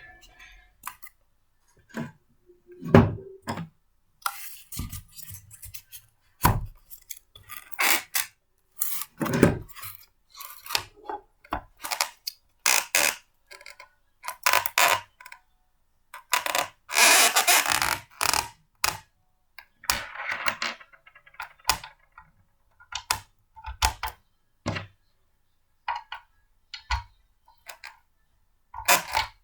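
Blender parts being handled and fitted together: a string of separate clicks, knocks and plastic clatters, with a longer rattling scrape about seventeen seconds in.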